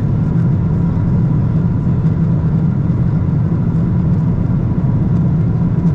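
Steady engine and airflow noise inside the cabin of a Boeing 777-300ER with General Electric GE90 engines. It is an even, low rumble with a faint steady whine over it.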